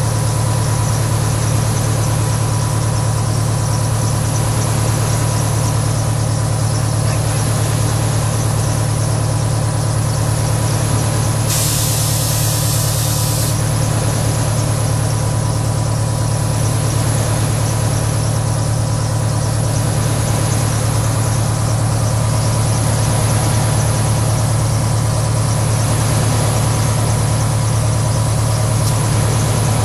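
Vehicle engine running steadily at idle, heard from inside the cab as a constant low hum with hiss, with a brief burst of high hiss about twelve seconds in.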